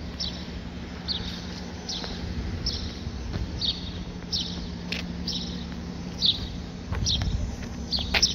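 A small bird chirping over and over, short falling chirps about once every three quarters of a second, over a steady low hum.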